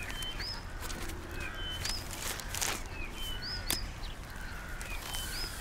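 Birdsong outdoors: a short chirping phrase of high whistles, repeated about every second and a half to two seconds, over a steady background hiss, with a few sharp clicks in between.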